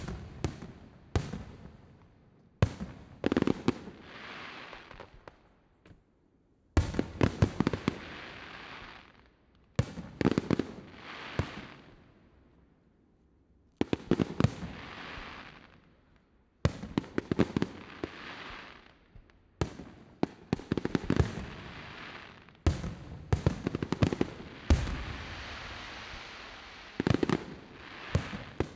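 Fireworks display: aerial shells bursting with sharp bangs in quick clusters, each followed by a crackling hiss that fades over a second or two, with brief lulls between volleys.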